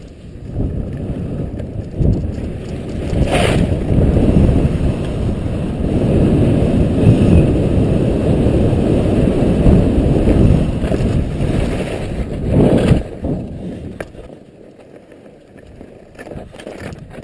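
Skis sliding and scraping on snow during a downhill run, under heavy wind buffeting on a helmet-mounted microphone, with two sharper scrapes partway through. The noise dies down about 14 seconds in.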